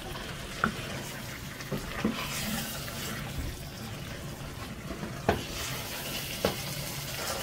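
Meatballs and vegetables frying steadily in a stainless pot while a wooden spoon stirs them, with a handful of sharp knocks of the spoon against the pot.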